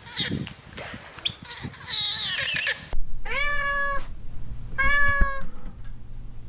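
A cat meowing twice, each meow about half a second long and nearly two seconds apart, in the second half. Before that come high, squeaky chirps that glide up and down.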